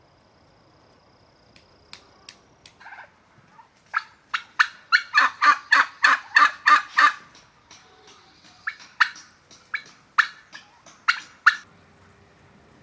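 Turkey gobbling: a fast rattling run of notes, about six a second, lasting roughly three seconds, with a few scattered sharper notes before and after it.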